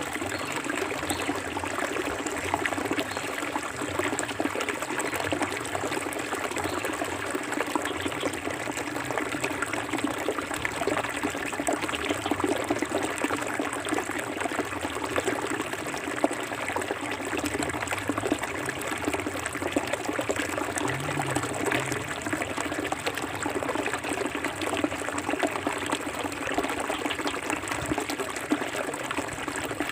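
Forest river flowing steadily, a continuous rushing and trickling of clear water.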